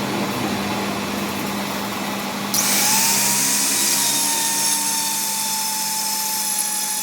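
Workshop power tool running: a steady machine hum, then about two and a half seconds in a louder high-pitched whirring hiss with a steady whine starts and keeps going.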